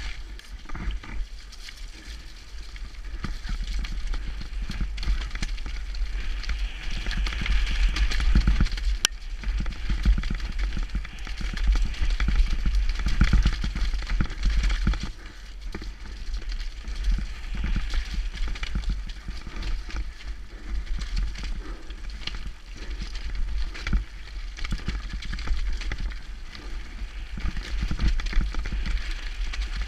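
Wind rumbling on a GoPro microphone during a fast downhill mountain bike descent, with tyres hissing over dirt and rocks and the Norco bike's frame and chain clattering over constant bumps. A sharp knock sounds about nine seconds in.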